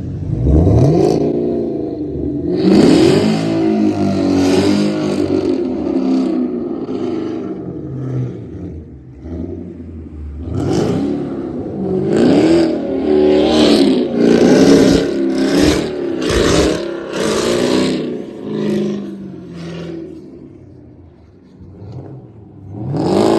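Camaro ZL1's supercharged 6.2-litre V8 revving hard again and again, its pitch climbing and dropping in repeated bursts, with two spells of revving and a quieter lull near the end.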